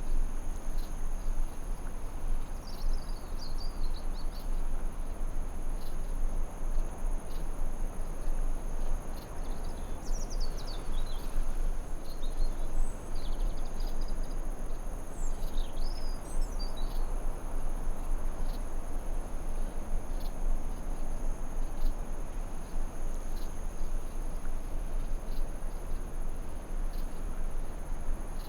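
Forest ambience: a steady high insect trill of crickets over an even rushing noise bed. Short bird chirps come about three seconds in and again in a cluster from about ten to seventeen seconds.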